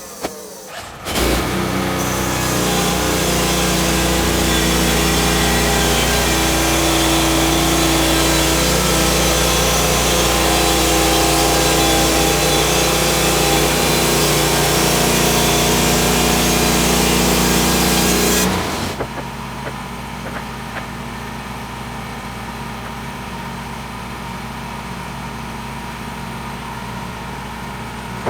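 Petrol engine of a band sawmill running steadily at high revs, then dropping abruptly about two-thirds of the way in to a quieter steady idle.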